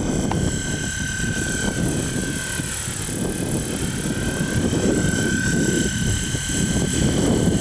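Large electric RC coaxial helicopter hovering, its motor and rotors giving a steady high whine. Wind buffets the microphone with a gusty low rumble.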